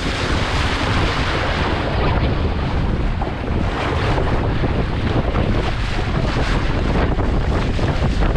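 Strong wind buffeting the microphone in a heavy, continuous rumble, with a rushing hiss of wind and waves that swells and fades.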